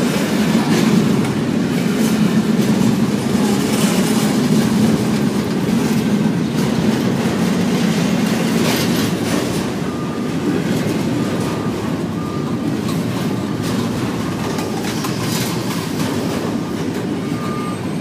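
Double-stack intermodal freight train's loaded well cars rolling past: a steady, loud rumble of steel wheels on rail with scattered clicks and clanks. From about halfway through come short, repeated high squeals from the wheels.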